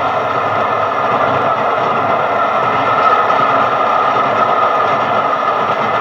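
A train passing close by at speed: a loud, steady rush of wheel and rail noise that is loudest about halfway through.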